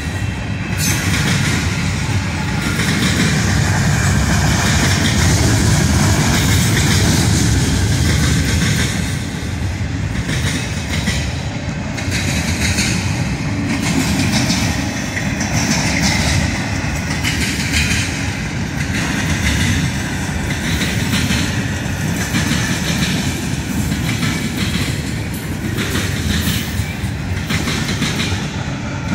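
Freight train cars rolling past at a steady speed: a continuous low rumble of steel wheels on the rails, with recurring clacks as the wheels cross rail joints.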